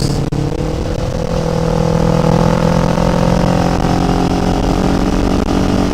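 Kawasaki Ninja 500's parallel-twin engine pulling steadily while riding, its pitch rising gently over the first couple of seconds and then holding.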